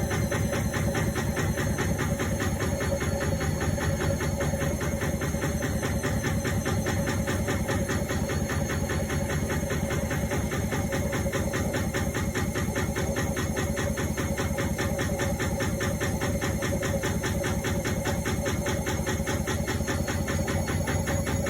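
Indesit washing machine running on a quick cotton wash: a steady mechanical sound with a fast, even pulse and a constant tone.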